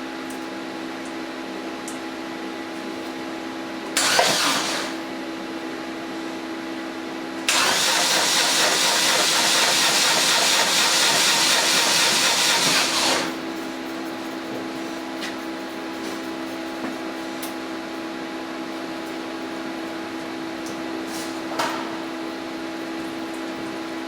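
Flooded BMW R1200GSA flat-twin engine turned over on its starter with the spark plugs out, a loud hissing rush for about five and a half seconds as water and air are blown out of the cylinders, after a brief burst about four seconds in. A steady low hum runs underneath.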